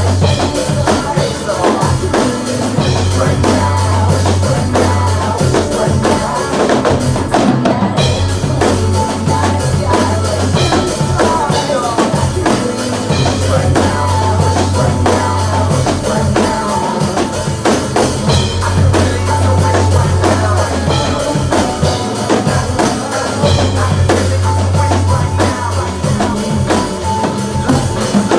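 Drum kit played along to a recorded song, with kick, snare and cymbal hits over the track's bass and vocals.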